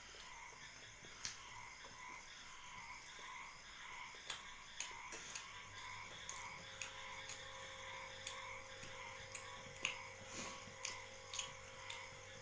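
Close wet chewing, lip smacks and small mouth clicks from people eating syrup-soaked Bengali sweets by hand. A faint steady hum joins about halfway through.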